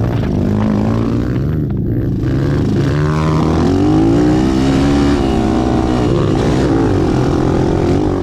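Several racing ATV engines revving hard together, their pitches rising and falling with throttle and shifts, loudest around the middle as the quads pass close.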